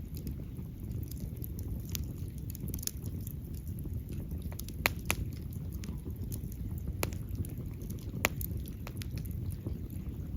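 Fire burning with a steady low rumble and scattered sharp crackles and pops, two of them louder about five and eight seconds in.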